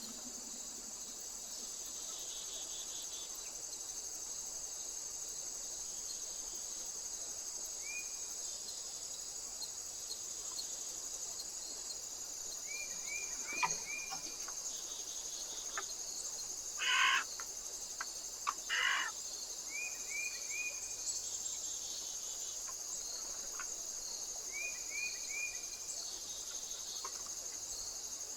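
Steady high-pitched insect chorus with small birds calling over it: several runs of three or four short chirps, and two louder calls about two-thirds of the way in.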